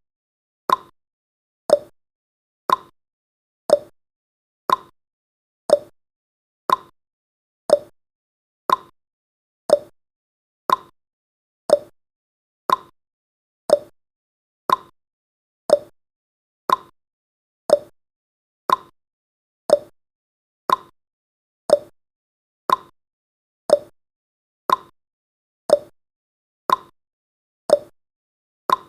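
Countdown timer's clock tick-tock sound effect: one sharp tick every second, alternating slightly between a lower and a higher pitch.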